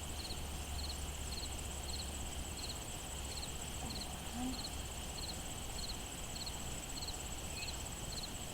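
Crickets chirping: short three-pulse chirps repeating a little under twice a second, over a steady high insect hum.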